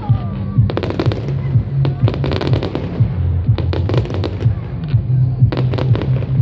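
Fireworks display going off in quick runs of sharp bangs and crackles from bursting shells, one cluster after another, with music playing underneath.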